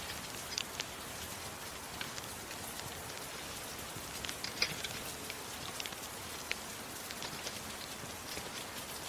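Steady rain hiss with scattered sharp crackles and pops from a wood fire.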